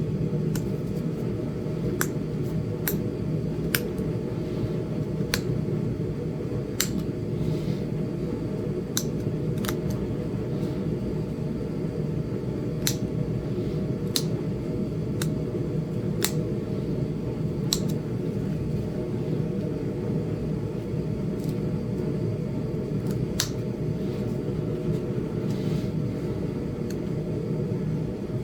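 Sharp, irregular clicks of small flakes snapping off a Flint Ridge chert arrowhead as its edges are worked, about twenty over the stretch, over a steady low hum.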